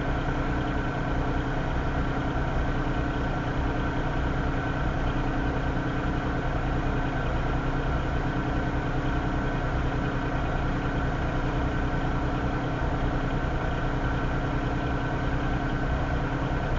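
Diesel-electric freight locomotives standing with their engines idling: a steady low rumble with a constant hum.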